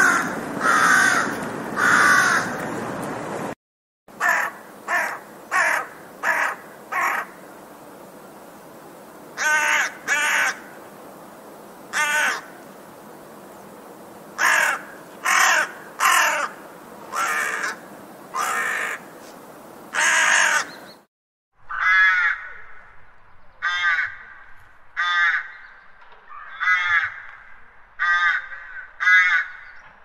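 Crows cawing in three separate recordings cut one after another. The first has a few loud caws over a noisy background. After a short break comes a quick run of five caws, then single caws spaced a second or two apart. After another short gap comes a run of shorter, quicker caws over a quieter background.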